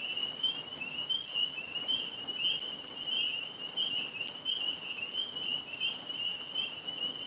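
Chorus of tree frogs calling: a steady, high, wavering trill with no break.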